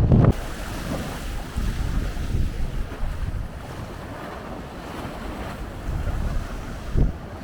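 Rough sea surf washing in steadily under strong wind, with wind buffeting the microphone. A heavy gust hits right at the start and another briefly about seven seconds in.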